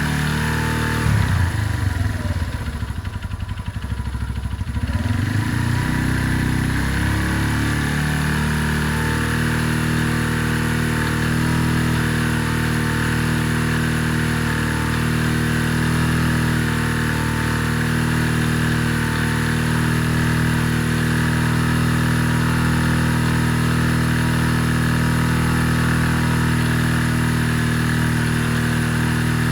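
Benelli Keeway 125cc motorcycle engine running, with its engine speed swinging up and down for a few seconds near the start before it settles into a steady idle. It is left running to burn in newly fitted exhaust wrap.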